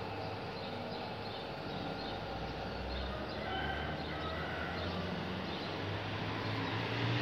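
Birds chirping in short, scattered calls over a steady low hum of distant traffic.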